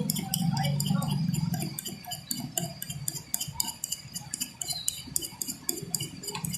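Metal tool scraping hardened ink off a copier's heat-fixing part: a rubbing scrape for the first second or two, then many small, irregular metallic clicks and taps.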